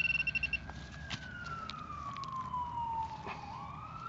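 A metal-detecting pinpointer beeps rapidly for about half a second and stops, typical of a probe right on a metal target. Under it a siren wails, its pitch falling slowly and then rising again a little after three seconds in, with a few light clicks.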